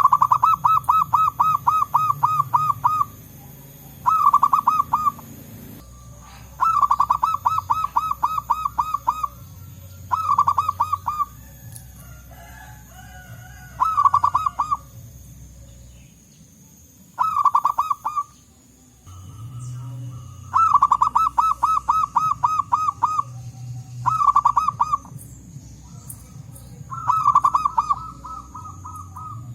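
Zebra doves (local perkutut) cooing in about ten bursts, each a rapid run of short repeated notes lasting one to three seconds, over a low background rumble.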